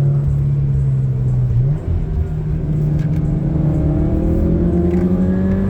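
Car engine heard from inside the cabin, running at a steady note, then a brief dip about two seconds in, after which the engine note climbs steadily in pitch as the car accelerates.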